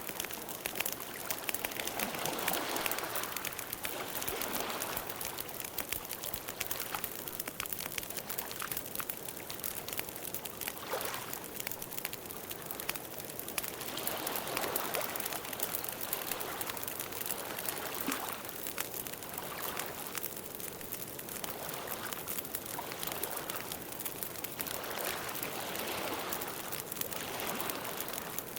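Campfire burning: many small crackles and pops over a steady rushing hiss that swells and eases every few seconds.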